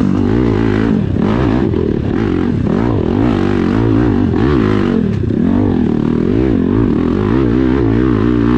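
Dirt bike engine revving up and down over and over as the throttle is worked on a hill climb, its pitch rising and falling every half second or so.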